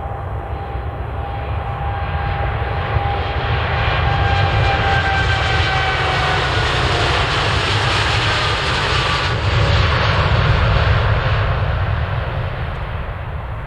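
Boeing 787-8 Dreamliner's jet engines at take-off thrust as the airliner passes. It grows louder to a peak about two-thirds of the way through, then fades, with whining tones sliding gradually down in pitch over a deep rumble.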